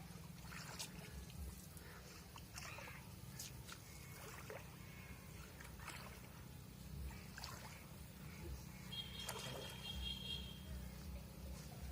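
Faint water trickling and light splashing at a pond over a steady low hum, with scattered small clicks and a brief high tone about nine seconds in.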